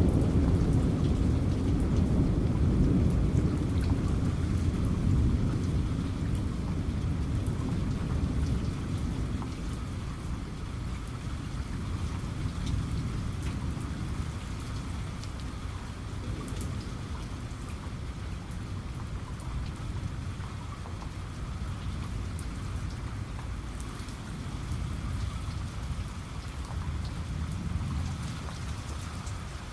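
Steady heavy rain with a low rumble of thunder that fades away over the first ten seconds or so; fainter rumbles swell and ease again later, under the constant patter of rain.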